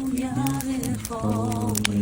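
Group of voices singing a slow song unaccompanied, holding long notes with a short breath about a second in.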